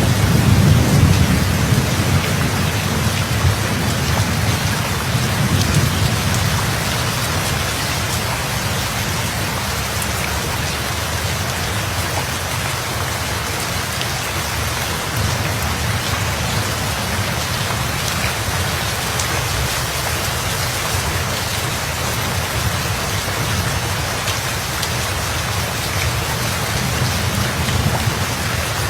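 Steady rain falling, with a low thunder rumble at the start that fades away over the first few seconds.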